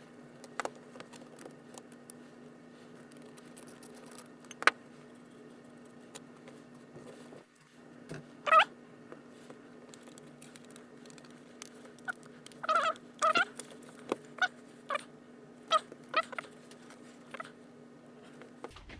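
Scattered metal clicks and a few short squeaks from tools working on an angle grinder, as bolts are undone to remove a housing piece, over a steady low hum.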